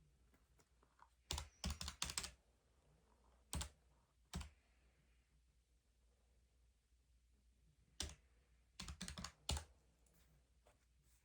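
Keys tapped in short bursts: a quick run of clicks about a second in, two single taps a little later, and another run of clicks near the end, with near silence between.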